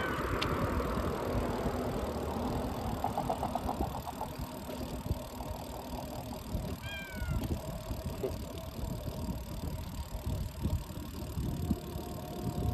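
Riding noise of a bicycle on the road: a steady rumble with wind buffeting the microphone. A short run of quick ticks comes about three seconds in, and a brief high, falling call about seven seconds in.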